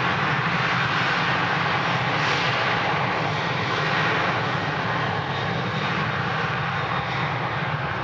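Boeing 737-800's CFM56-7B jet engines at takeoff power: a steady, loud rush of jet noise that eases slightly over the last few seconds.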